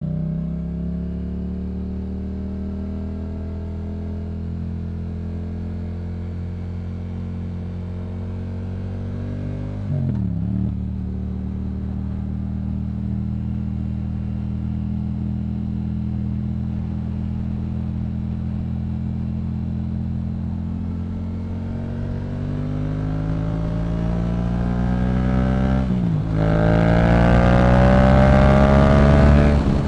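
Yamaha MT-07's parallel-twin engine through a Yoshimura exhaust, cruising at steady revs, with a brief break in the engine note about ten seconds in, like a gear change. From about two-thirds of the way through it pulls harder, rising in pitch and getting louder, dips sharply once as it shifts up, then climbs again.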